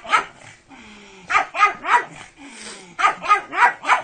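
A pug barking in quick bursts: one bark right at the start, a run of three about a second and a half in, and a run of four near the end.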